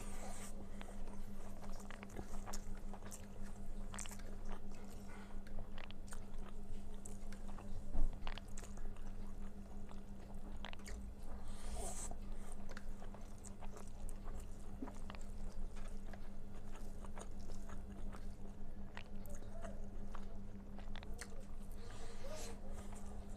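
Close-miked chewing and mouth sounds of a person eating rice with red amaranth greens and potato dal: many soft irregular smacks and clicks, with one sharp louder knock about eight seconds in. A steady low hum runs underneath.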